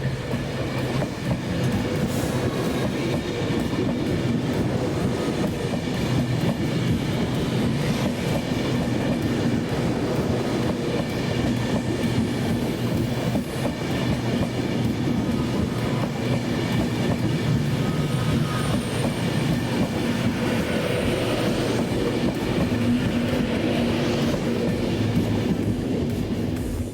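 Train running past at close range: a steady rumble of wheels on rails with a low machinery hum and faint high wheel squeal.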